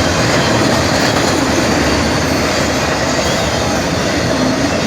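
A train rolling past close by: a steady, loud rumble and rattle of wheels on the rails.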